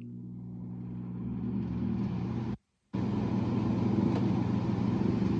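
Window air conditioner's fan motor starting up, its hum growing steadily louder as it spins up. It breaks off for a moment about two and a half seconds in, then runs steadily at full speed with air rushing.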